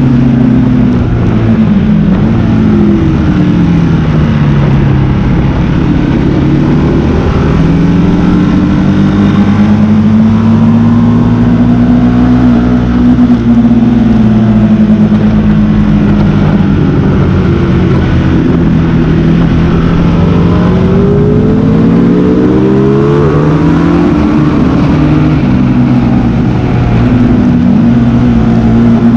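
Sport motorcycle engine at track speed, its pitch climbing under acceleration and falling away on the overrun again and again without a break.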